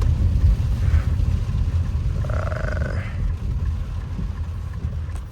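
Low, steady rumble of a car's engine and tyres on a rain-soaked road, heard from inside the cabin, easing slightly in level.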